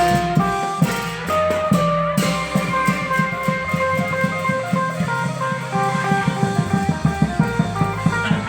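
Klong yao long-drum band playing: a plucked-string lead melody over a steady bass line, with fast, even drum strikes.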